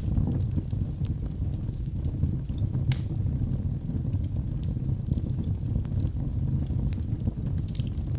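Wood fire burning in a fireplace: a steady low rumble of flames with sharp crackles and pops scattered through, the loudest pop about three seconds in.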